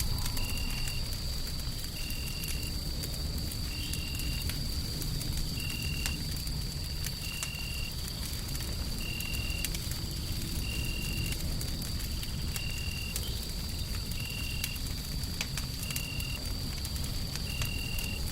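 Wood fire crackling, with scattered sharp pops, over a steady low rumble of noise. A constant high tone sits behind it, and a short high chirp repeats evenly about every second and a half.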